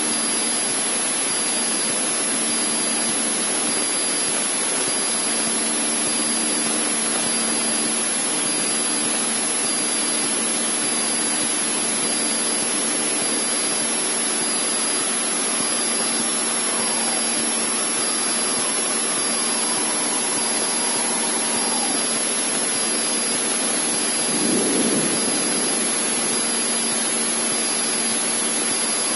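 Cessna 152's four-cylinder piston engine and propeller heard from the cockpit in level cruise at about 2200 rpm: a steady, unchanging drone with a low hum under a hiss of airflow.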